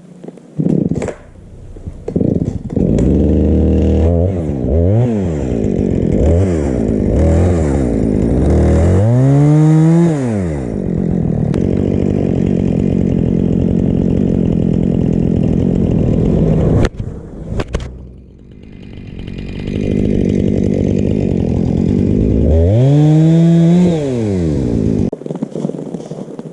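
Chainsaw fitted with an extra-long sawmill bar and ripping chain, revved up and down several times, then held at high speed for several seconds as in a cut. It drops back about 17 seconds in, revs up and runs hard again, then falls back near the end.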